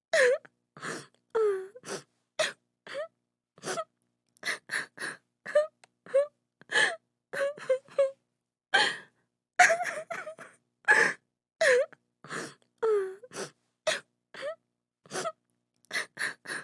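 A woman sobbing in short, broken gasps and wailing cries, about two a second, with silence between each one.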